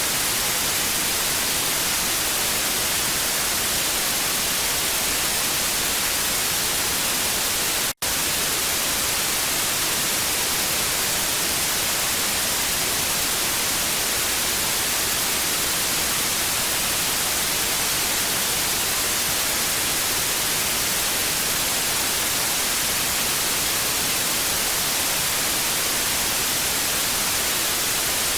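Steady TV static: an even hiss strongest in the high range. About eight seconds in it cuts out for a split second, then resumes unchanged.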